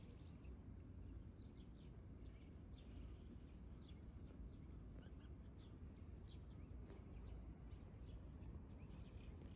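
Faint outdoor ambience: small birds chirping in short, repeated calls over a low, steady background rumble.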